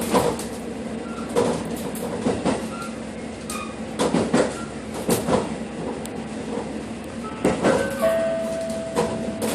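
Train running on rails, its wheels knocking over rail joints in uneven pairs of clacks over a steady rolling noise. A steady high tone sets in about eight seconds in.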